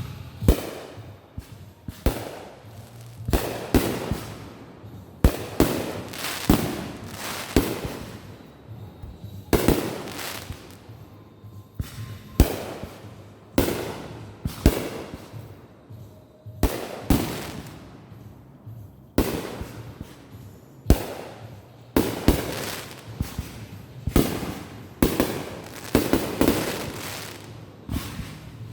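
Backyard fireworks going off in quick succession: a sharp bang every second or so, each followed by crackling that dies away.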